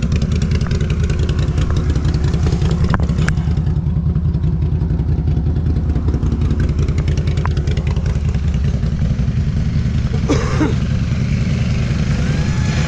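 ATV engine running steadily at a low, even idle, with a few light clicks over it.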